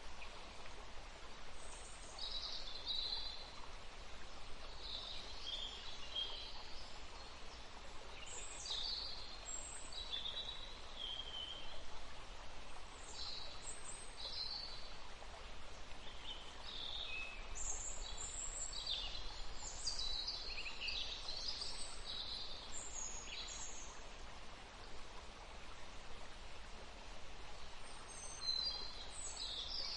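Songbirds chirping and singing in short high phrases, with a lull of a few seconds near the end, over a steady background hiss.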